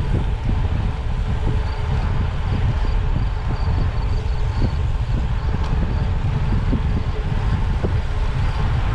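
Steady low wind rumble on the microphone of a bicycle ride at speed.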